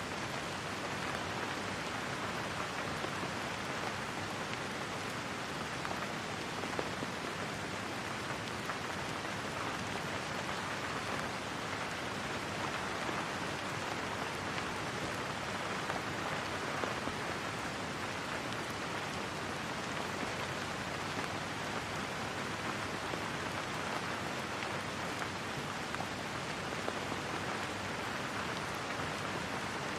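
Steady rain falling on a surface, an even hiss with faint scattered drops.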